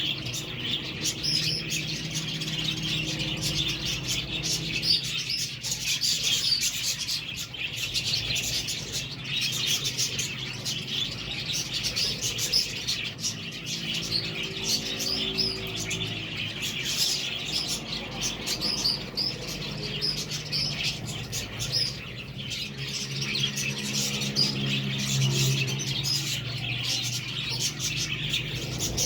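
A flock of budgerigars chattering and warbling nonstop in dense, overlapping chirps and trills. A low hum runs underneath and swells now and then.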